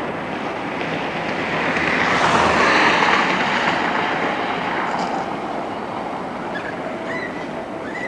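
A tram passing by, swelling to its loudest about three seconds in and then fading, with a few short wheel squeals near the end.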